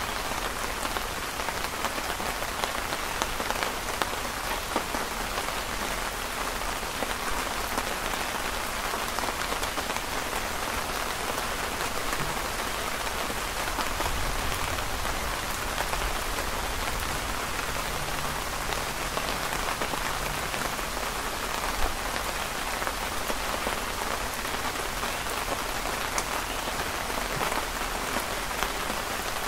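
Steady rain falling, heard from under a canopy, a dense even patter of countless small drops.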